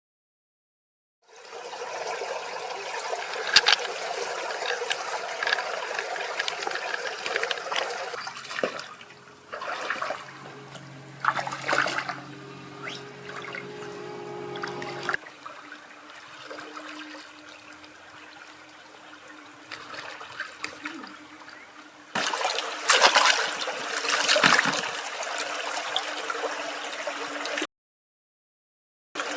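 Water sloshing and trickling in several abrupt cut-together stretches, with a short silence at the start and another near the end.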